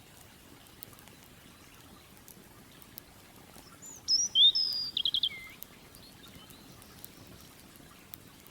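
A songbird sings one short phrase about four seconds in: a few clear whistled notes, a quick trill, then a falling note. Faint scattered crackles of a campfire sit under a low steady hiss.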